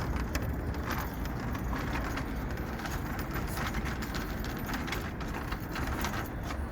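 Footsteps on pavement, a string of sharp irregular taps, over a steady low rumble of wind and passing traffic.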